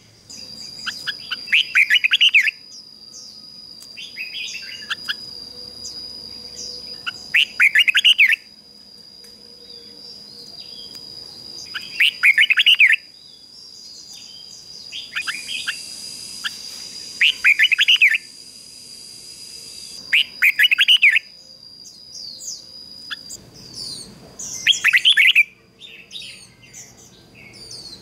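Red-whiskered bulbul singing: short, loud, warbling phrases repeated every few seconds. A steady high-pitched tone runs behind the song and stops near the end.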